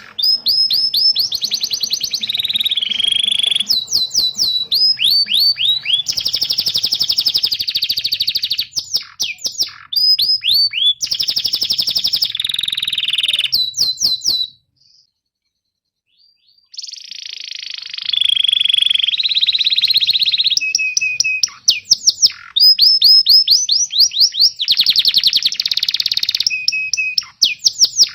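Domestic canary singing: fast trills and rapid series of repeated high, downward-sweeping chirps ('cuit-cuit' chirping), with a break of about two seconds a little past halfway before the song resumes.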